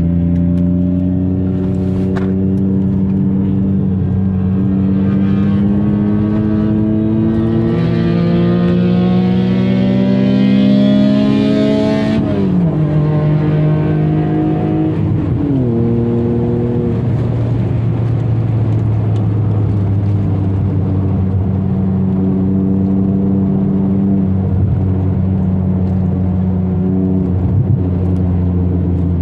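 BMW 323ti Compact's 2.5-litre straight-six heard from inside the cabin, revving up under acceleration, then falling sharply in pitch at an upshift about twelve seconds in. The pitch drops again about three seconds later, and the engine then runs steadily at cruising revs.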